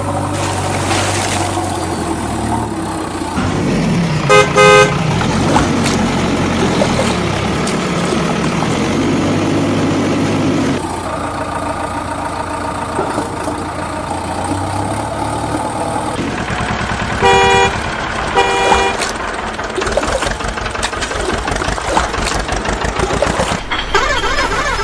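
Heavy vehicle engines running with a horn honking: two short blasts about four seconds in and two more about seventeen and eighteen seconds in.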